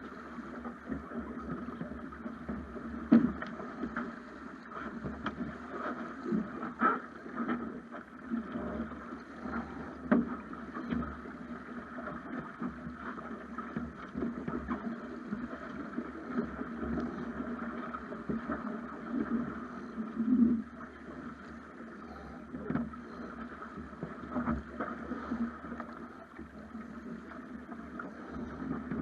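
Water rushing and splashing along a Snipe sailing dinghy's hull as it sails. Scattered sharp knocks are heard throughout.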